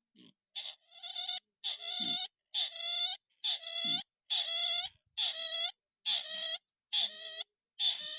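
Repeated calls of a tikusan crake: about ten near-identical short calls, roughly one a second, as used to lure the bird to a trap.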